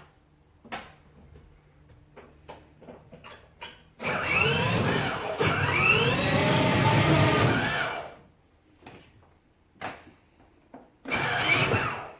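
A battery-powered toy car's small electric motor whirring for about four seconds, with rising and falling tones over it, after a few light clicks; a shorter whir comes again near the end.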